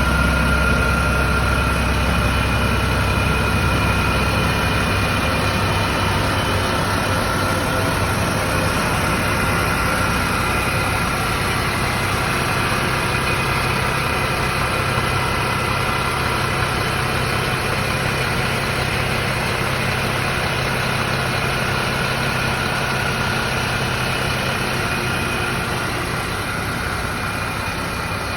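Mercedes-Benz OM457LA straight-six turbodiesel of an O 500 RS 1836 bus idling steadily, a low even rumble with a faint steady high whine above it.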